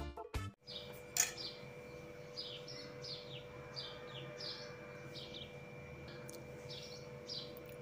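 Small birds chirping in the background: short, high, falling chirps repeating about twice a second over a faint steady hum. A single click about a second in.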